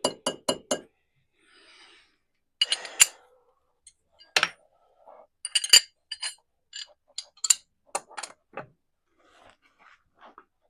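Sharp metallic clicks and clinks of hand tools being worked: a quick even run of clicks at the start, then scattered single clinks and short clusters.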